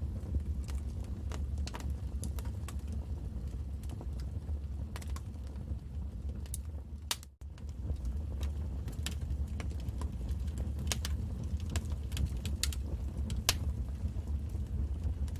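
Wood fire in a fireplace crackling: irregular sharp pops and snaps over a steady low rumble of the flames. The sound briefly drops out about halfway through, then resumes.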